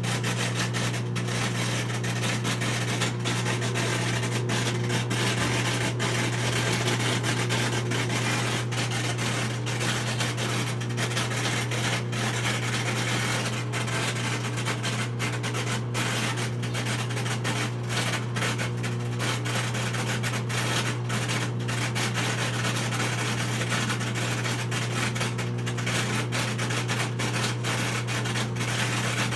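Whirlpool front-load washing machine running through its spin and drain cycle with a steady low hum and a continuous rasping, rubbing noise: the abnormal noise the machine makes during spin and drain.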